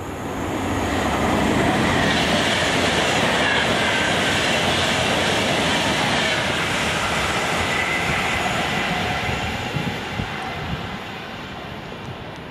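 A freight train of empty car-carrier wagons hauled by a Class 92 electric locomotive passes at speed. The rushing rumble of wheels on rail builds over the first second or two, holds, then eases off as the train draws away, with a few sharp clicks of wheels over rail joints near the end.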